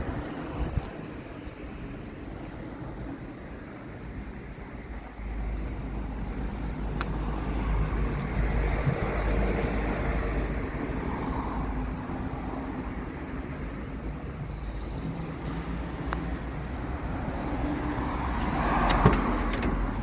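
Subaru Sambar mini truck's small 660 cc four-cylinder engine running, with a low rumble that grows louder about five seconds in. A few sharp clicks, and a louder knock near the end.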